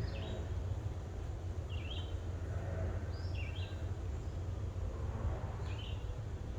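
A bird giving short, repeated chirps about every one and a half to two seconds over a steady low rumble.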